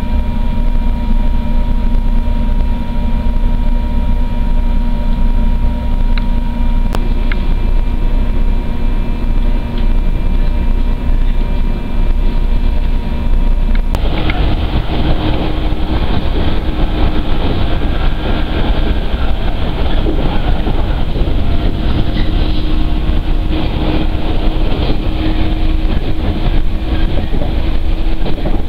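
Interior noise of a 115 series electric train: a steady hum with a couple of held tones, then about halfway through an abrupt change to the denser, noisier rumble of the train running along the line.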